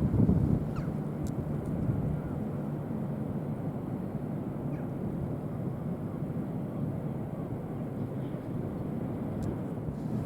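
Steady low rumble of a ship's engines at a ferry port, with a brief louder gust at the start.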